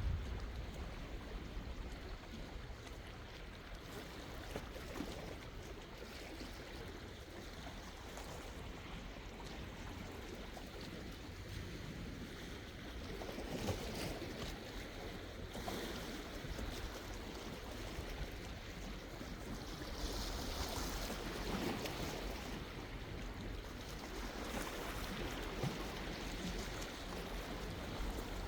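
Sea waves washing ashore: a continuous rushing wash that surges louder now and then as sets break.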